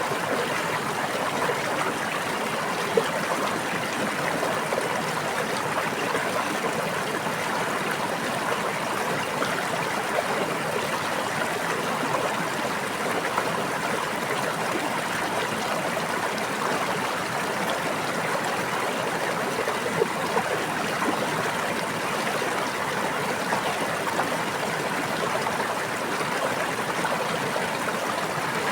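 A brook babbling steadily: a continuous rush of running water with a few brief, slightly louder splashes.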